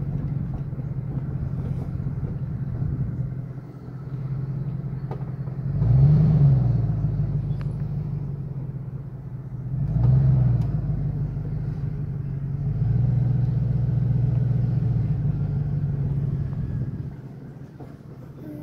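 Car engine running on the move, heard from inside the cabin. Its pitch swells up and back down twice, about six and ten seconds in, and it eases off near the end.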